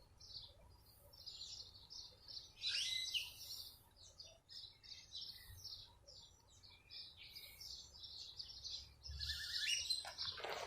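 Songbirds chirping and calling: many short high chirps with a few sweeping notes, a little louder about three seconds in and near the end.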